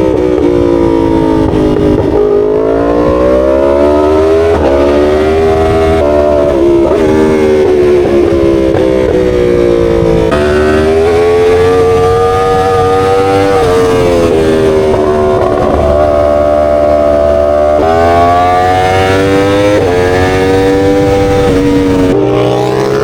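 Motorcycle engine under way, its revs climbing and dropping again and again as the bike accelerates and shifts or backs off.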